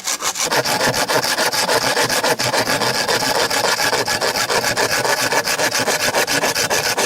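Hand saw cutting through bamboo with quick, even back-and-forth strokes.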